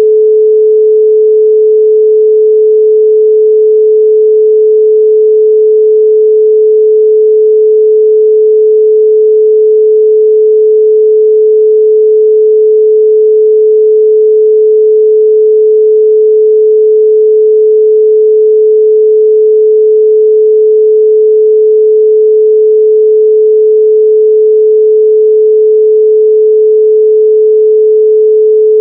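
A steady 432 Hz pure sine tone, one unbroken pitch held at constant loudness, with no harmonics or other sounds.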